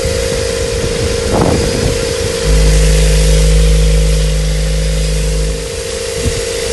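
Ford AODA 2.0-litre four-cylinder petrol engine running, with a short blip of revs about a second and a half in, then a louder steady stretch of about three seconds before it settles back.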